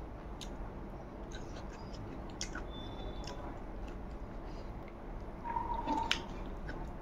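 Close-miked chewing of soft rice eaten by hand, with scattered small wet smacks and clicks of the mouth. They grow busier and louder about five and a half seconds in, where a short steady tone also sounds.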